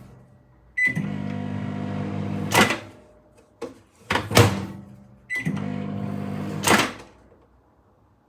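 Microwave oven run twice in short bursts with a phone inside. Each burst starts with a short keypad beep, hums steadily for about two seconds and ends with a loud clunk. Another clunk comes between the two runs.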